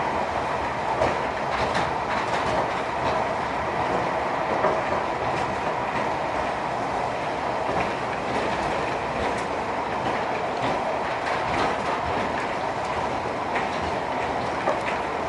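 Cable-drawn airport people-mover tram car running along its guideway: a steady rolling rumble with scattered light clicks and rattles.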